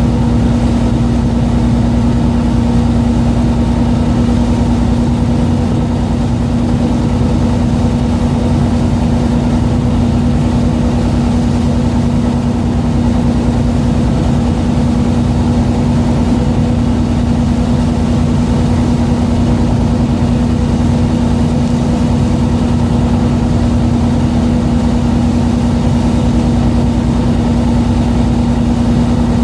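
A fishing boat's engine running steadily at constant speed, a loud unchanging hum with a strong steady tone over low rumble.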